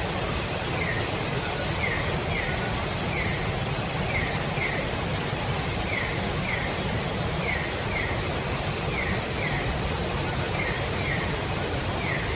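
Rainforest night chorus: a steady, high-pitched insect drone over a continuous rushing hiss, with pairs of short falling chirps repeating about once a second.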